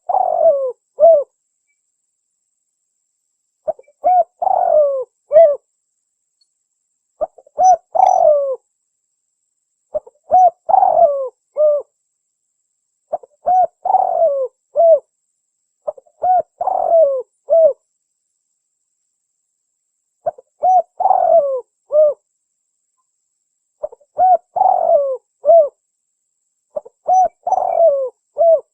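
Spotted dove (tekukur) cooing: the same short multi-note phrase, a quick first coo, a longer rolling coo and a closing note, repeated about nine times, one every three to four seconds with silence between.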